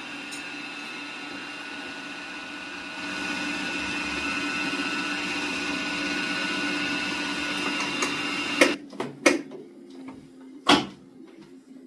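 A small electric motor runs with a steady whine, getting louder about three seconds in, and stops near the end. Several sharp knocks or clatters follow.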